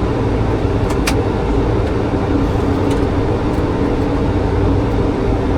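Steady flight-deck noise of a Boeing 737 on approach: a continuous rush of airflow and engine hum. A short click sounds about a second in.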